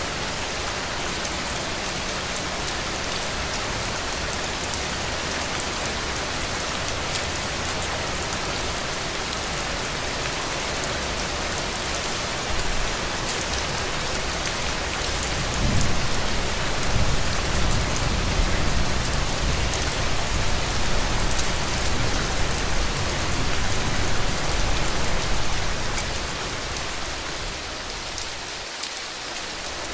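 Heavy rain falling steadily as a dense, even hiss. A deep rumble swells up about halfway through and fades again near the end.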